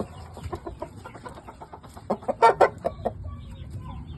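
Shamo game fowl clucking, with a louder run of short, sharp calls about two seconds in.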